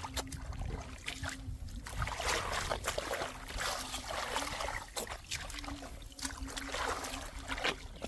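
Muddy shallow water splashing and sloshing as it is worked by hand, in irregular swishes, over a faint steady hum.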